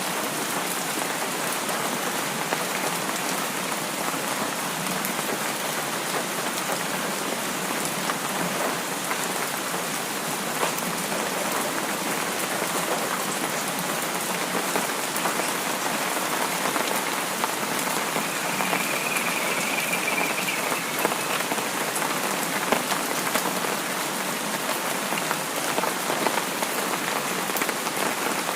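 Steady rain falling: an even hiss with the patter of countless individual drops.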